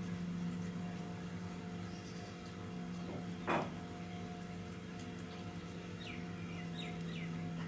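Birds chirping, with a quick run of four short falling calls near the end, over a steady low hum. A single short, sharp sound comes about halfway through.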